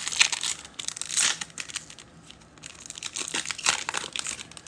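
Foil trading-card pack wrapper crinkling and tearing as a pack is ripped open, with irregular rustles and crackles, loudest near the start and again about a second in.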